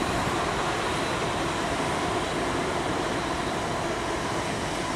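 A pair of coupled Class 350 Desiro electric multiple units running past, giving a steady, even rushing rumble of wheels on rail with a faint steady whine.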